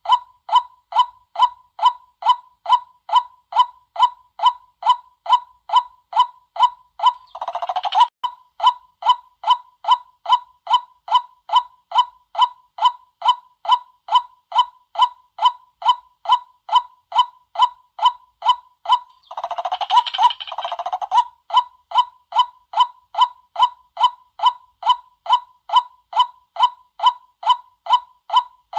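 White-breasted waterhen's monotonous 'kwak' call: one short note repeated about two and a half times a second. Louder, harsher calls break in twice, about 8 and 20 seconds in.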